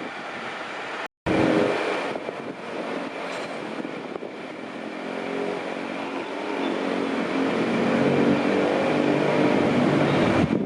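Diesel rail vehicle engine running, its pitch drifting slowly as it works and the sound growing louder toward the end. A brief dropout in the sound comes about a second in.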